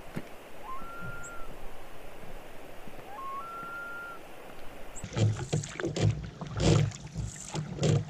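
A bird gives two whistled calls, each a short lower note followed by a longer steady higher one, over a soft background hiss. About five seconds in the sound cuts to loud wind buffeting and irregular knocks from a canoe being paddled.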